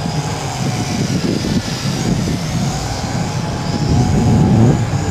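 YiZhan X6 Tarantula six-rotor toy drone's motors and propellers whining, the pitch rising and falling as it is flown, over heavy wind buffeting on the microphone.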